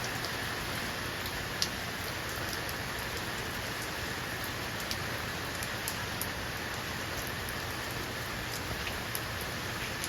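Steady rain falling, an even hiss with scattered sharp drip and drop impacts, the sharpest about one and a half seconds in.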